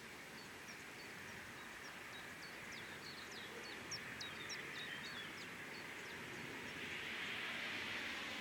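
Outdoor background noise, over which a small bird gives a quick series of short, high chirps through the first half. A broad rushing sound, like a passing vehicle, swells near the end.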